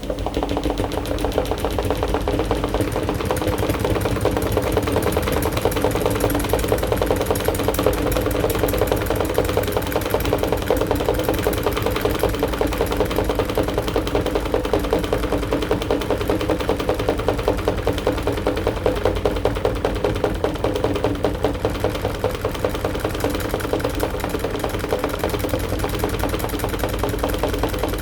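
AQUA AQW-DX12M drum washing machine running, with a steady motor hum and a fast, even rattling vibration. It is picked up through the machine's top panel, where the phone lies.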